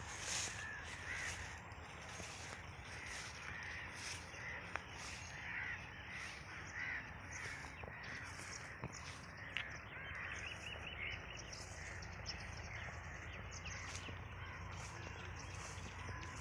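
Several birds calling over and over, with short overlapping calls coming every second or so, over a low steady rumble.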